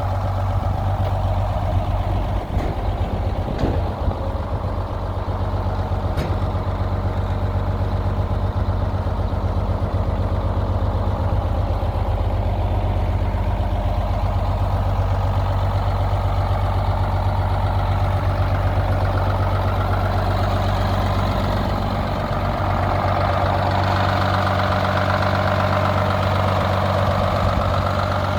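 GMC Brigadier truck engine idling steadily, with a few faint clicks in the first few seconds.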